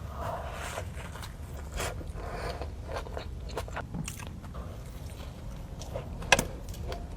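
Close-up eating sounds: a person biting and chewing with small irregular crunches, and one sharper crunch about six seconds in.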